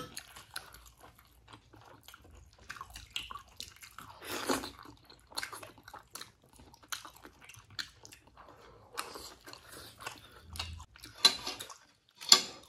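Close-miked chewing and biting of steamed momo dumplings: wet, irregular mouth sounds, with louder bursts about four seconds in and twice near the end.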